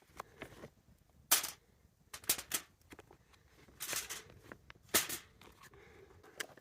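Heavy-duty aluminum foil crinkling in several short, sharp crackles as vegetable pieces are laid onto it and the sheet is handled.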